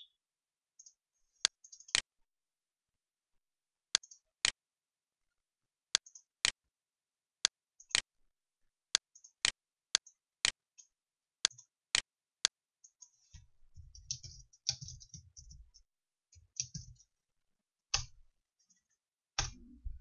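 A series of sharp, isolated clicks, many in pairs about half a second apart, recurring every second or two, with faint hissing between them. Past the middle a low rumble with hiss comes in for a few seconds under the clicks.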